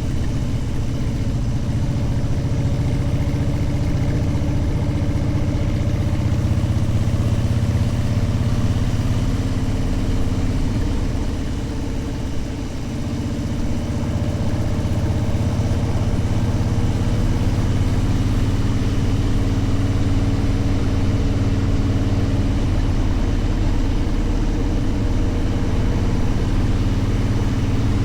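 Motorcycle engine running steadily under way, easing off briefly about halfway through and then pulling again.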